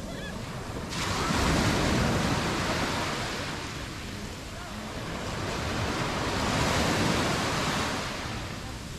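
Mediterranean waves breaking and washing up the beach in slow swells, with two surges about five seconds apart: the first at about one second in, the second peaking near seven seconds. Some wind on the microphone.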